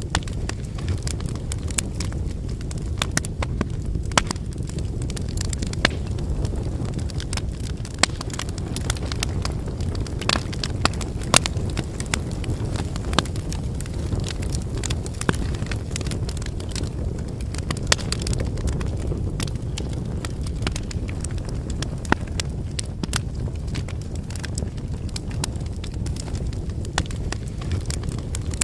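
Wood fire burning: a steady low rush of flame with sharp crackles and pops from the burning wood, scattered irregularly.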